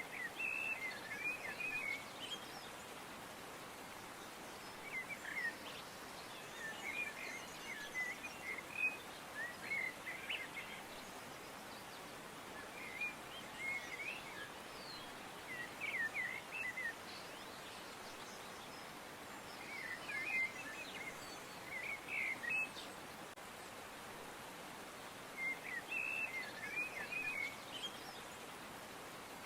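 Birds chirping in short bursts of quick high notes, group after group with pauses between, over a steady background hiss.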